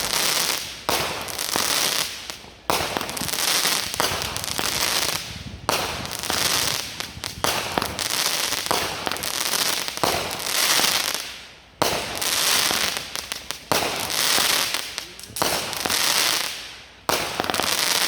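Fireworks going off: dense crackling with sharp pops, in runs of a few seconds that break off suddenly several times.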